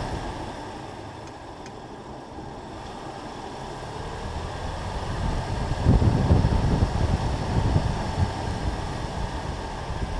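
BMW M2 Competition's twin-turbo inline-six and exhaust, quiet while the car coasts through a hairpin, then accelerating with a louder low rumble about six seconds in, over wind and tyre noise.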